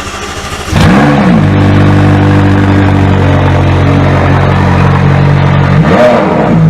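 A sports car's engine just after starting. It steps up louder a little under a second in, then runs at a steady fast idle, with a short blip of revs rising and falling about a second in and another near the end.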